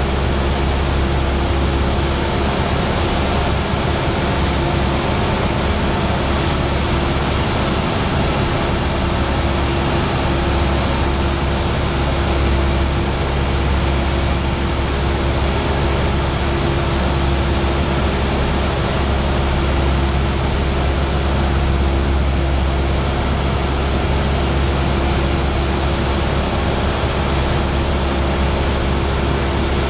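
Cessna 172R's four-cylinder Lycoming engine and propeller droning steadily in flight, heard inside the cabin as a constant noise with a low hum.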